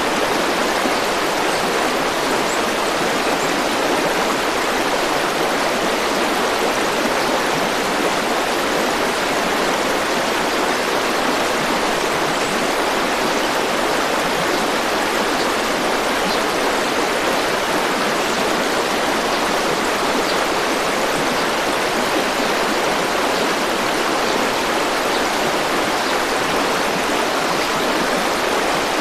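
A river or stream rushing steadily, an even wash of flowing water with no change in level.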